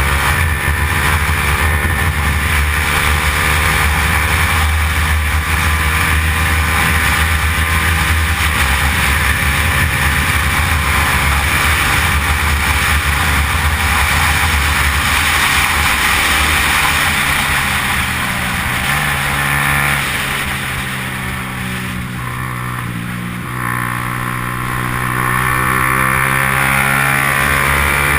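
Yamaha R15's single-cylinder engine running hard at high revs. About eighteen seconds in, the revs and level drop as it slows, then climb again near the end as it accelerates.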